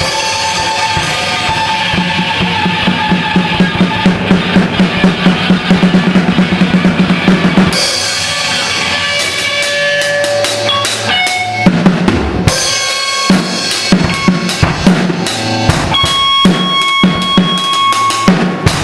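Band playing with a loud drum kit: a fast run of bass-drum and snare hits, then about eight seconds in the music changes to sparser beats with held notes.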